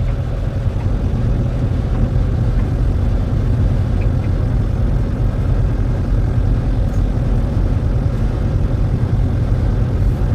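Heavy truck's engine running with a steady low rumble, with no change in pitch or level.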